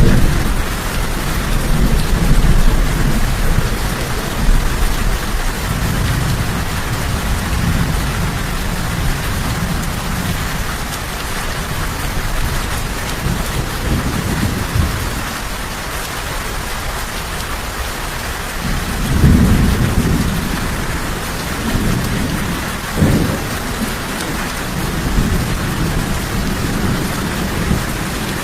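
Steady heavy rainfall with low rolls of thunder rumbling through it, the strongest roll about two-thirds of the way in and a shorter, sharper one soon after.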